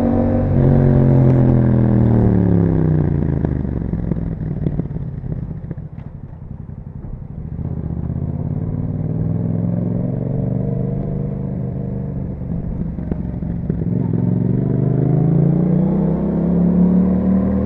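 A 2021 Yamaha MT-07's parallel-twin engine through an Akrapovic exhaust. The revs fall away over the first few seconds as the bike slows, stay low and quieter through the middle, then climb again near the end as it accelerates.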